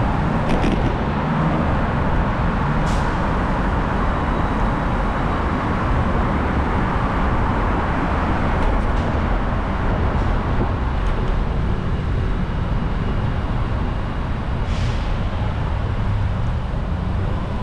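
Steady rush-hour street traffic, a constant rumble of passing cars, with two brief hisses, about 3 seconds in and again near the end.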